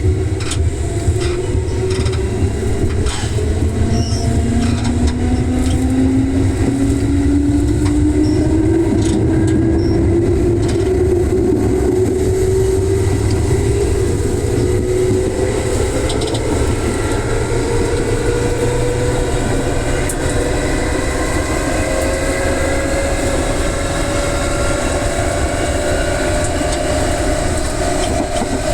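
Electric commuter train pulling away and accelerating, its traction motor hum climbing steadily in pitch over the running noise of the car, with a few clicks early on.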